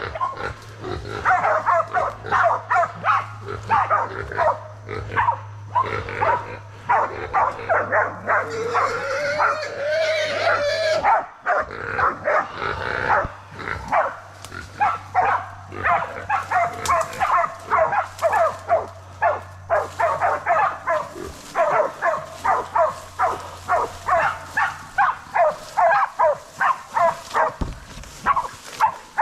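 Pig-hunting bailing dogs barking rapidly and continuously at a wild boar they have bayed. A longer, rising squealing cry comes through about eight to eleven seconds in.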